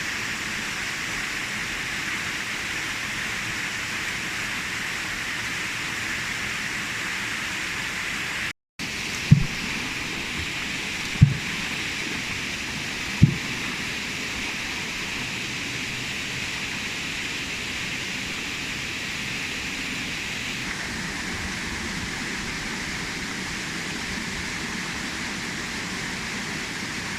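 Waterfall rushing in a steady, even roar of falling water. It breaks off for an instant about a third of the way in, and three short, dull low thumps follow about two seconds apart.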